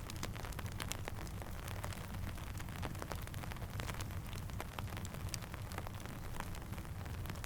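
Steady rain with a dense patter of drops, mixed with the sharp pops of a crackling campfire, over a low steady rumble.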